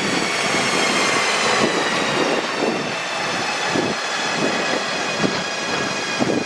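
SBB Re 420 (Re 4/4 II) electric locomotive running, its motors giving a high whine made of several tones that sink slowly in pitch, over the clatter of wheels on rail.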